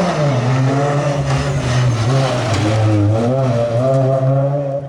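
Rally car engine running hard, its note rising and falling with the revs, then dropping away at the end.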